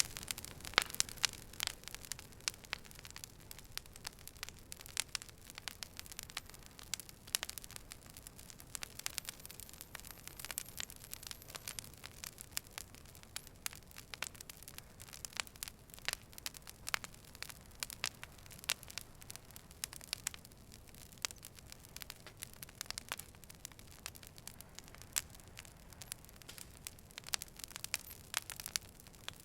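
Wood fire burning, with frequent irregular sharp crackles and pops over a faint low hiss.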